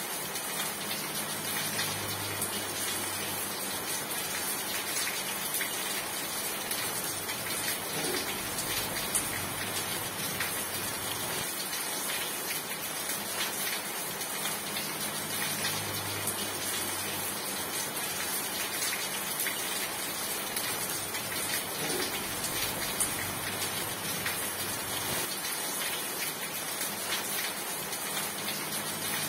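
Steady rain falling, an even dense hiss of drops with scattered sharper drop ticks. A faint low hum comes and goes under it.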